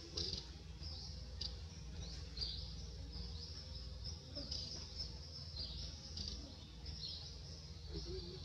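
Small birds chirping continuously, many short, high calls overlapping, some falling in pitch, over a steady low rumble.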